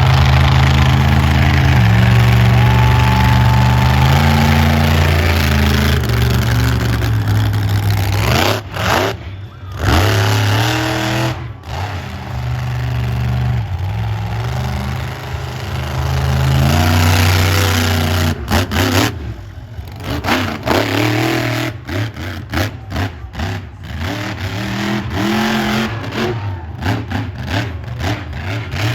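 Monster truck engine running hard at high revs for several seconds, then repeatedly chopped off and opened up again, with rising and falling revs and, near the end, a run of quick throttle stabs.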